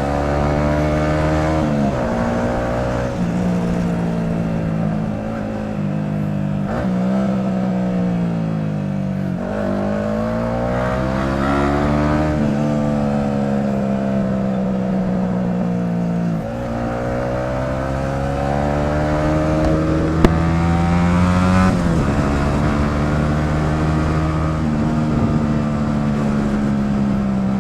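Sport motorcycle engine pulling hard through the gears. Its pitch climbs and then drops sharply at each gear change, several times over. One sharp click is heard about twenty seconds in.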